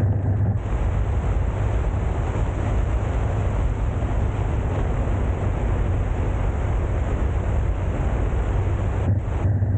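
Mountain valley stream rushing in a steady, continuous noise.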